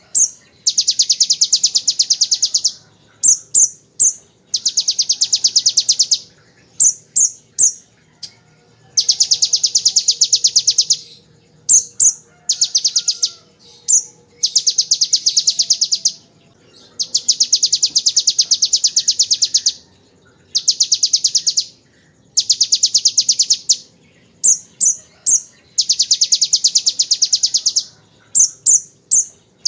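Kolibri ninja sunbird singing, with fast machine-gun-like trills copied from the bar-winged prinia (ciblek). Runs of rapidly repeated high notes, each one to three seconds long, alternate with short bursts of two or three quick chirps.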